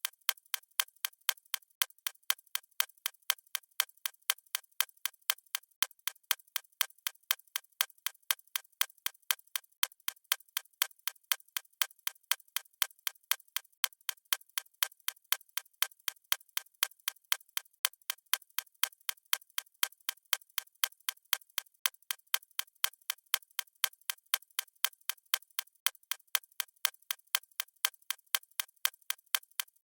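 Clock ticking steadily, with sharp, even ticks about twice a second.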